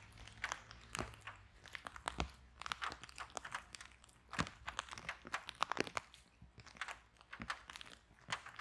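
Wood fire in a fireplace crackling and popping, with irregular sharp snaps several times a second over a soft hiss.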